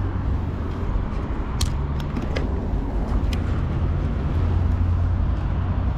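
Honda CBR1100XX Blackbird motorcycle's inline-four engine running, a steady low rumble, with a few faint clicks in the first half.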